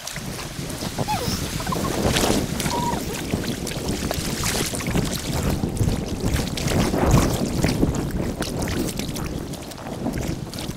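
Wind rumbling on the microphone over splashing water from kayak paddling on a river, sped up in time lapse, with irregular short knocks and splashes through it.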